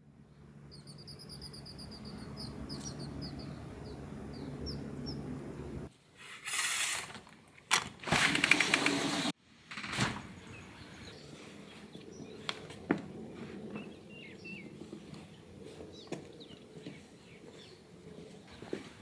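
A bird's quick trill of repeated high chirps over a steady low hum. Later come two loud bursts of noise; the second lasts about a second and a half and cuts off suddenly.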